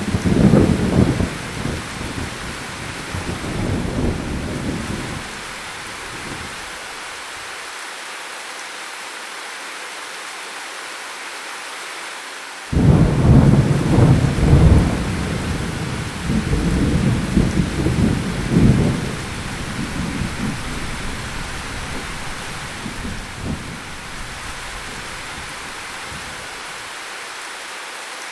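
Steady rain falling, with two peals of thunder: the first rumbles at the start and dies away by about six seconds in, the second breaks suddenly about halfway through and rolls on for several seconds before fading.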